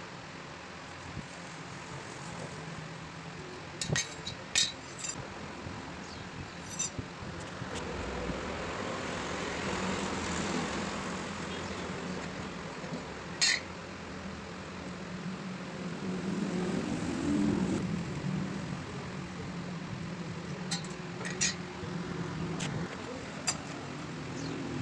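A steady background hum that swells in the middle, with a few short sharp metallic clinks: a pair about 4 seconds in, one about halfway, and two more near the end.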